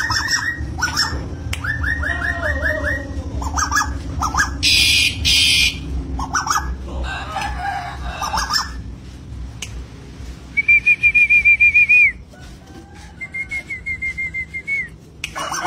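Bird calls: repeated fast trills of short notes and high bursts. A loud, quavering whistle about a second and a half long comes near the middle, and a softer one follows. A steady low hum runs underneath.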